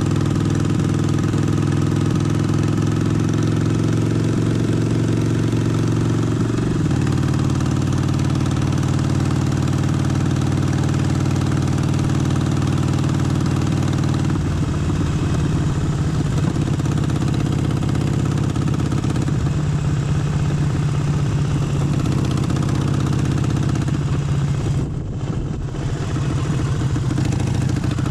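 Harley-Davidson Forty-Eight's air-cooled 1200 cc V-twin running at a steady, even pitch, settling slightly lower about six seconds in. From about halfway the note turns rougher and uneven, with a brief dip in level near the end.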